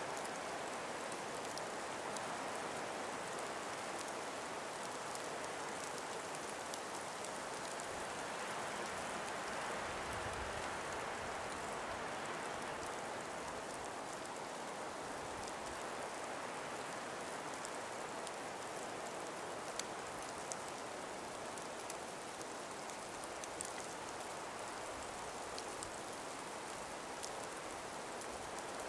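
Steady soft hiss of a calm winter breeze through ice- and snow-laden forest trees, with faint scattered ticks throughout.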